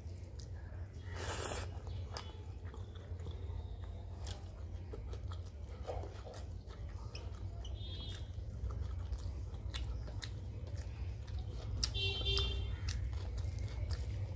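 Close-up chewing of a mouthful of rice and dal eaten by hand, with many wet mouth clicks and smacks, over a steady low hum.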